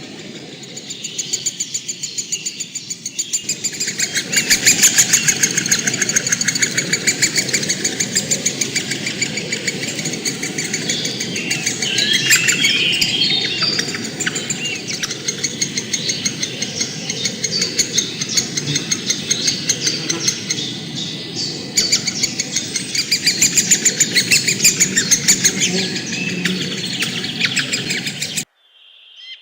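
Birds chirping and calling over a loud, fast pulsing trill, with a burst of quick warbling calls about halfway through; it all cuts off suddenly near the end.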